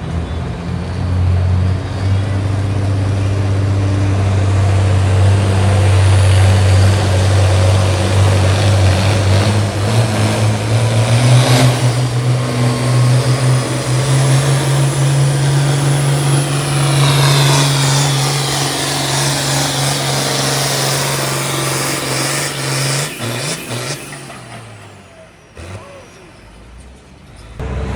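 Allis-Chalmers 210 tractor's diesel engine running hard under load while pulling the sled, holding a steady note. Its pitch steps up about eleven seconds in and holds, then the engine note drops away about 23 seconds in and the sound fades.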